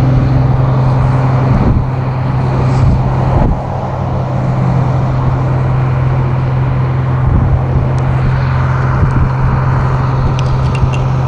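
A vehicle engine running at a steady idle: a constant low hum with a rumbling noise over it. A few faint clicks come near the end.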